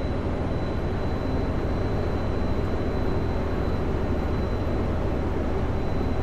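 Kenworth W900L semi truck's diesel engine and tyres running in a steady drone at highway cruising speed, heard from inside the cab, with a faint steady high whine over it.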